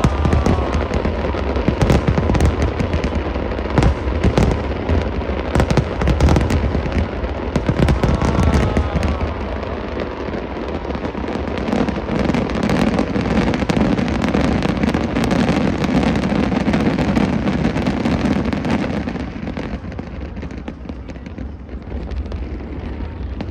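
Fireworks display: many rapid bangs and crackling bursts overlapping, with a heavy low rumble of reports in the middle. It thins out and grows quieter about three-quarters of the way through, then builds again near the end.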